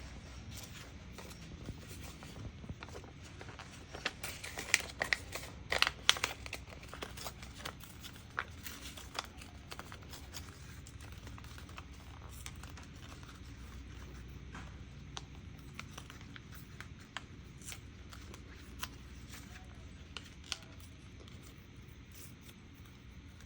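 Paper scraps rustling and crinkling as they are handled and sorted, with a burst of louder crackles a few seconds in, then sparse light ticks and taps.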